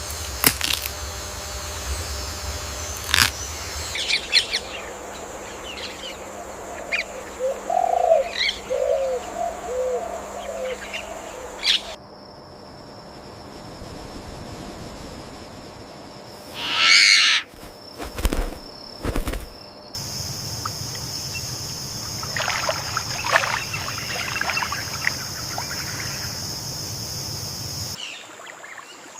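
Tropical forest ambience of several spliced recordings: assorted bird calls and chirps over a steady high whine. A run of low calls comes about eight seconds in, a loud brief rush about halfway, and a few sharp clicks just after. The background changes abruptly every several seconds.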